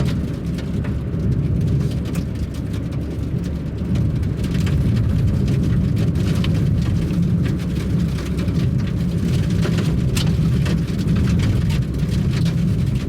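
Steady low rumble of a vehicle travelling on a rough, patchy road, with scattered sharp ticks and knocks over it.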